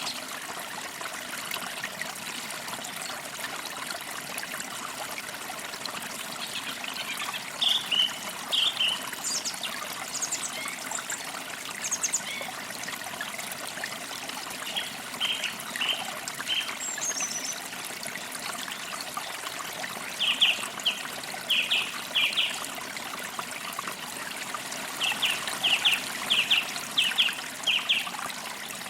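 Forest creek trickling steadily, with a small bird chirping in short runs of quick notes several times, most busily near the end.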